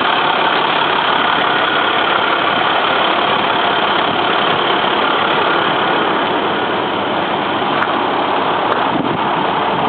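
Engine of a 2012 International water truck running steadily.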